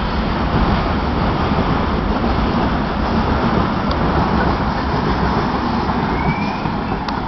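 Train running by, a steady rumble and rush of noise that eases slightly near the end.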